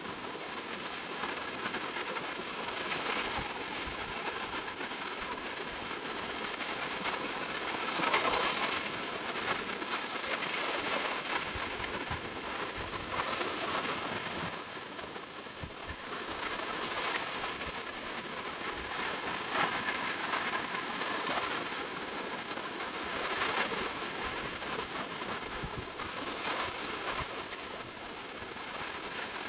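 Sea waves breaking and washing up the beach, a steady rush of surf that swells every few seconds.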